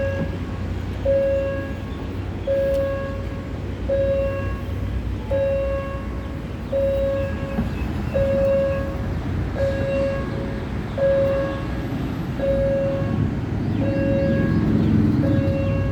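Railway level-crossing warning signal sounding a repeated pitched tone, about once every second and a half, over a steady low rumble of road traffic.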